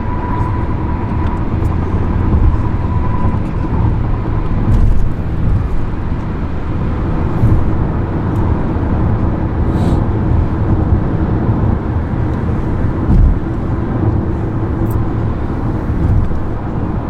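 Steady road and engine noise inside a moving car's cabin, a low rumble with a faint steady whine.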